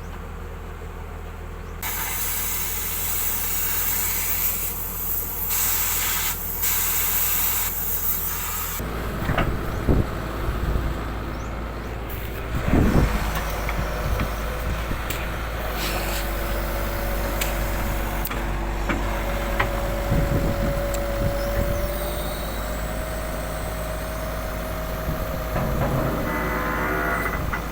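Heavy diesel machinery running with a steady low engine hum. Early on a loud hiss of released air lasts several seconds; then the engine works harder, with scattered knocks and clanks and a steady whine that begins partway through.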